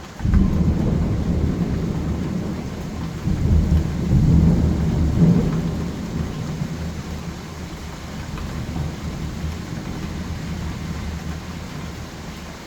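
A roll of thunder over steady rain: a sudden low rumble that swells again a few seconds in, then slowly dies away.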